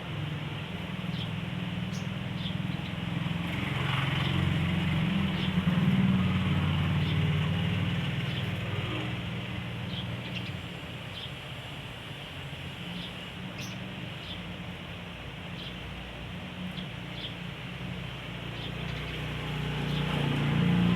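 Low steady rumble like distant motor traffic, swelling about a quarter of the way in and again near the end, with faint, very short high chirps scattered through.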